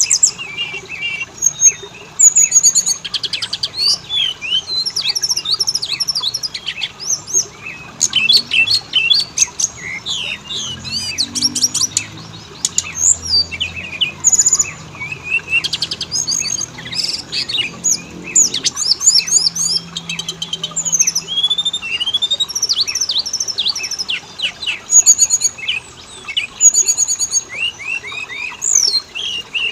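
Oriental magpie-robin singing a fast, varied, continuous song of chirps, trills and whistles: a lure song meant to set captive magpie-robins singing.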